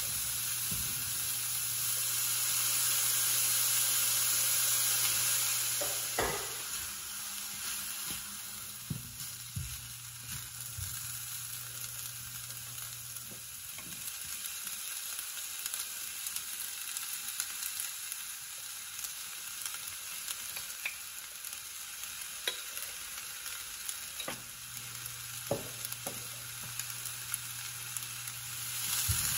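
Food sizzling in a stainless steel frying pan as it is stir-fried with a silicone spatula, with scattered taps of the spatula against the pan. The sizzle is loudest for the first six seconds, then softer.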